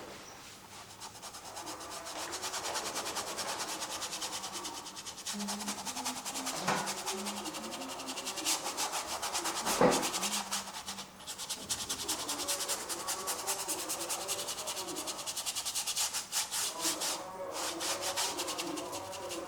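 A brush scrubbing acrylic paint onto canvas in quick, dense strokes, with one sharper knock about ten seconds in.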